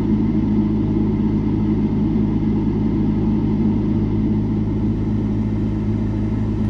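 A motor running steadily with a low, unchanging hum.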